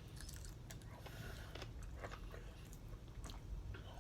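Faint close-up chewing and biting of fried chicken wings, small wet clicks and crunches at irregular moments.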